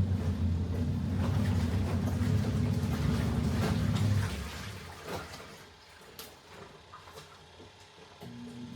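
Washing machine running a wash: the motor hums low and steady as the water and laundry churn. It stops about four seconds in, leaving water sloshing and a click, then starts again near the end, the on-off pattern of an agitating wash cycle.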